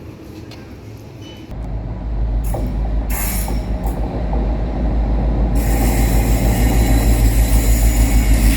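A train rumbling heavily and growing louder, with a steady hiss joining in about halfway through.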